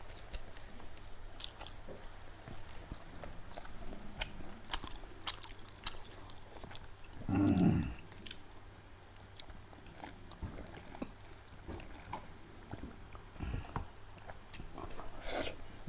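Close-up eating sounds of pork curry and rice being chewed: many small wet mouth clicks and smacks, with one louder, lower sound about halfway through.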